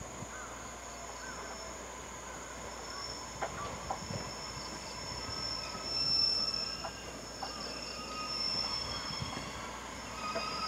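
Electric train approaching slowly along the platform track, its wheels giving high squealing tones that build toward the end, with a few light knocks about 3.5 to 4 seconds in. A steady high insect buzz runs underneath.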